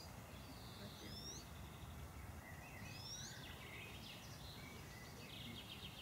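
Faint outdoor background noise with a bird calling: a short rising chirp repeated about three times, with fainter chattering calls later.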